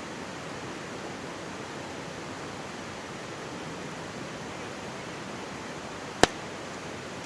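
Steady rush of a mountain stream, with one sharp, loud pop from the burning campfire wood about six seconds in.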